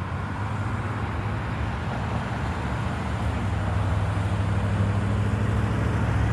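Road traffic: a motor vehicle's engine running with a steady low hum, growing slowly louder.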